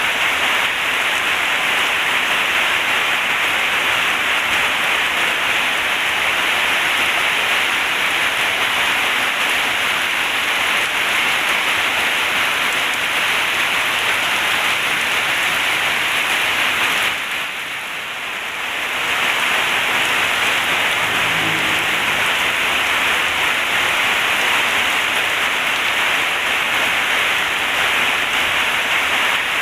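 Heavy rain pouring steadily in a dense hiss, easing briefly for a second or two a little past halfway, then returning.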